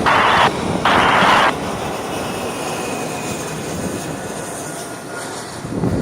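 Two short bursts of radio static in the first second and a half, then the steady rushing noise of an Airbus A319's jet engines as it comes in to land.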